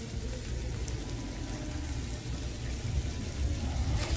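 Diced sheep offal sizzling in a frying pan over a wood fire as sweet soy sauce is poured in, with a light click near the end.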